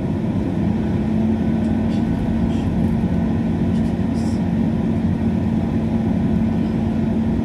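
Inside the carriage of a moving diesel passenger train: a steady rumble of engine and running gear with a constant low hum.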